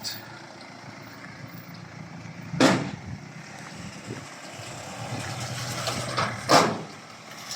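Vehicle engine running steadily as a car is loaded onto a car-carrier truck, with two loud clunks, one about a third of the way in and one near the end.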